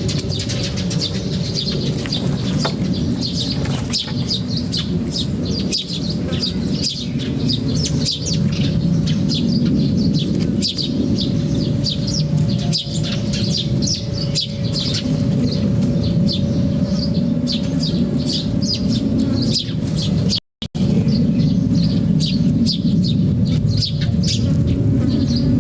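A flock of small birds chirping continuously in quick overlapping calls, over a steady low rumble and a faint steady hum. The sound cuts out completely for a moment about twenty seconds in.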